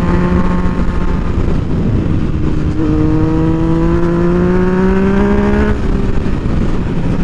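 Motorcycle engine running under way. About three seconds in it pulls up in pitch under throttle for about three seconds, then drops back abruptly.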